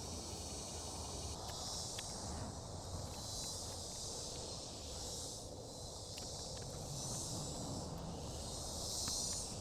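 Insects buzzing high in swelling and fading waves over a low rumble, with a few faint clicks.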